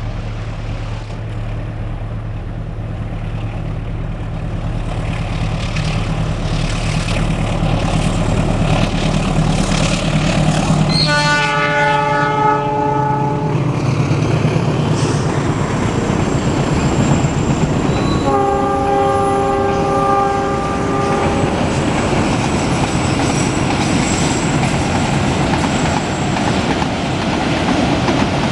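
Indonesian diesel-electric train locomotive approaching with its engine running, then sounding its horn in two long blasts, the first about 11 seconds in and the second about 18 seconds in. After the first blast the train passes close, with a loud steady rumble and clatter of wheels on the rails.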